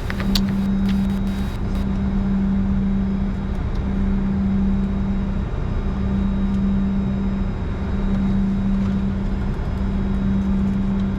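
Steady cockpit noise of a Bombardier Challenger 605 standing with its GE CF34 turbofans at idle: a constant low hum that drops out briefly every second or two over an even rush, with a few clicks in the first second or two.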